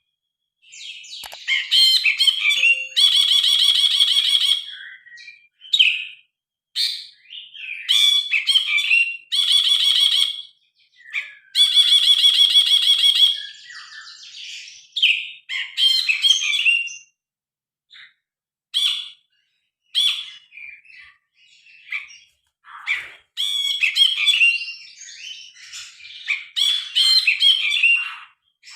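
Brinji kelabu (a bulbul) singing a loud, varied song of clear whistled and chattering phrases. It breaks twice into long rattling trills, one about two seconds in and another about eleven seconds in, with short pauses between phrases.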